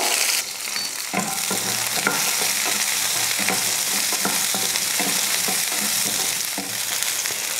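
Shallots sizzling as they fry in a little oil, stirred in the pan, with scattered short scrapes and knocks of the stirring utensil against the pan.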